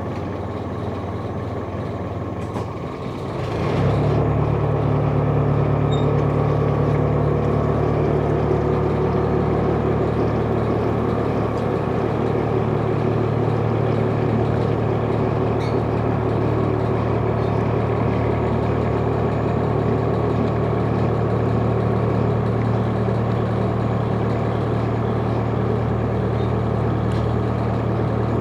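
Sightseeing boat's engine running at low speed, then speeding up about three and a half seconds in and holding a steady, louder drone.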